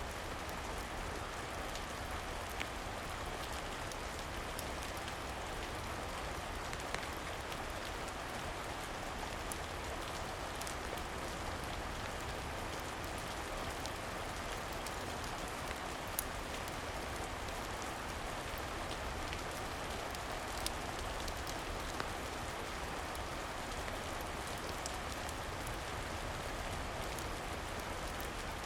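Steady rain falling, an even hiss, with a few isolated sharp ticks scattered through it.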